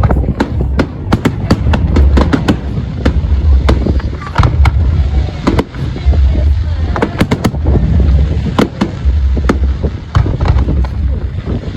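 Fireworks display with rapid, overlapping bangs and crackles going off throughout, over a deep, pulsing rumble.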